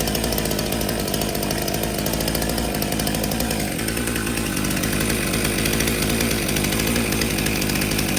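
Stihl MS362 M-Tronic two-stroke chainsaw engine running steadily at the start-position fast idle, trigger untouched and chain brake on, during the 90-second reset that lets a new fuel solenoid and the control unit sync up.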